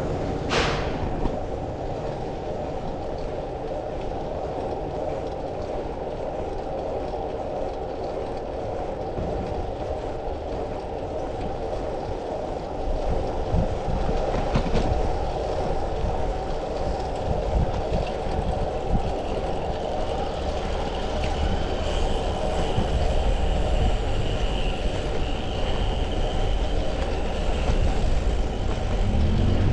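Steady rumbling road and traffic noise with wind on the microphone while riding a bicycle through city streets, with a sharp click near the start and a faint high squeal later on.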